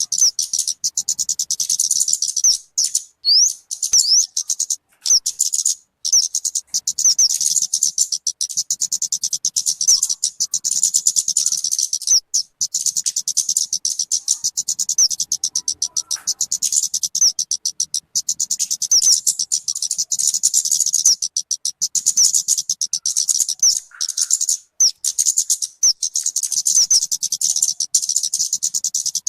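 Talokan (kemade) bird singing: a continuous, rapid stream of high-pitched chirps and short trills, broken by a few brief pauses.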